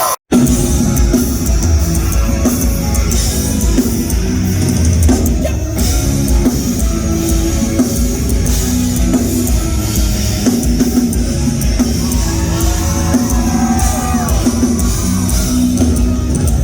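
Rock band playing live: drum kit and guitars in an instrumental passage without vocals. The sound cuts out for an instant just after the start, then the music runs on at full level.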